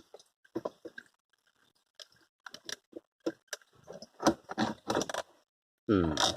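Irregular clicks, knocks and scraping of plastic and metal parts as a car's fuel pump assembly is worked loose in the fuel tank opening. The sounds come thicker and louder in the second half.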